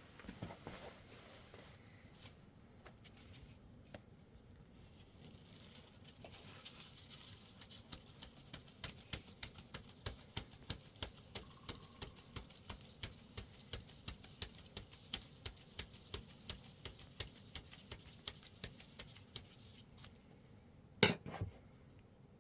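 Light, even taps or pats, about two a second, going on for several seconds, then one sharp knock near the end.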